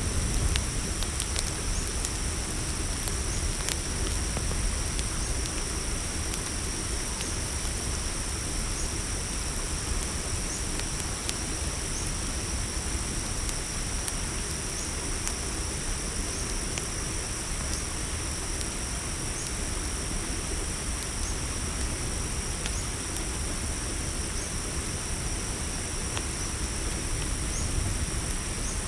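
A steady chorus of crickets chirping high and continuously, over a crackling campfire with scattered sharp pops and a low rumble of burning.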